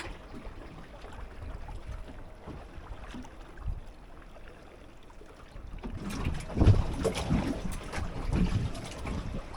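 Water slapping and lapping against the hull of a small fishing boat rocking on swell, with wind on the microphone; the slaps and knocks get louder and more frequent from about six seconds in.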